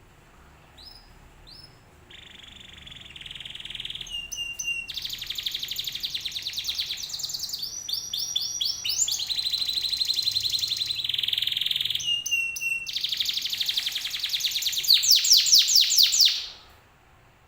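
Domestic canary singing: two short high notes, then a long song of rapid repeated trills and rolling phrases that grows louder and cuts off suddenly near the end.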